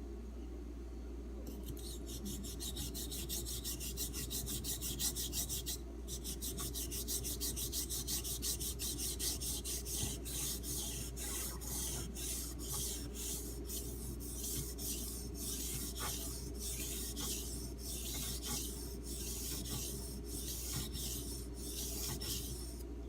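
A D2 steel knife blade stroked back and forth on a wet 3000-grit Arkansas water stone, making a rhythmic scraping rasp. It starts about a second and a half in with quick strokes, breaks off briefly near six seconds, then goes on in slower, more separate strokes. The stone's coarse new surface is wearing smooth and shedding grit into a slurry.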